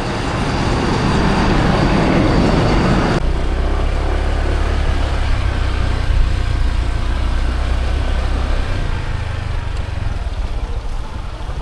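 Motor vehicle engine noise. A loud, noisy passage builds for about three seconds and cuts off suddenly, followed by a low steady engine hum that fades out near the end.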